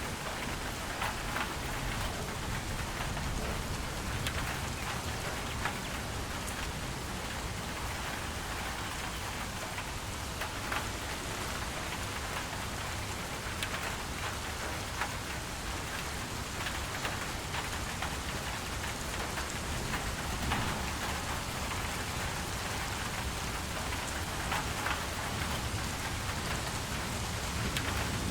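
Steady rain falling, with individual drops ticking sharply on a hard surface now and then.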